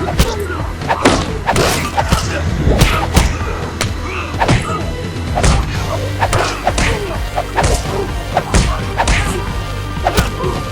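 Fight sound effects: a rapid run of punch and kick impacts, about two a second, with a few whooshes, over a music track.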